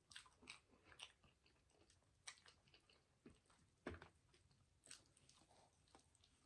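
Faint close-miked chewing of a chili cheese dog: irregular wet mouth smacks and clicks, with a louder smack about four seconds in.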